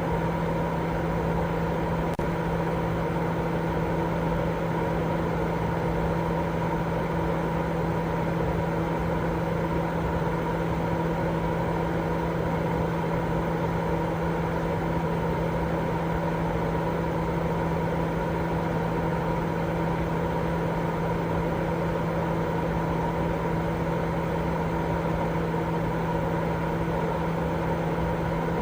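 Continuous white-noise sleep sound: an even, steady rushing with a low hum running through it, unchanging.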